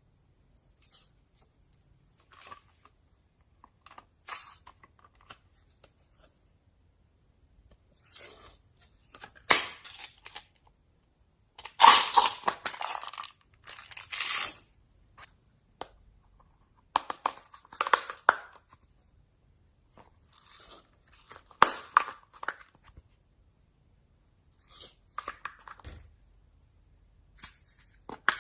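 Slime being pressed, stretched and pulled apart by hand, making separate crackling, tearing bursts a second or two long with short gaps between them. The loudest come about twelve seconds in.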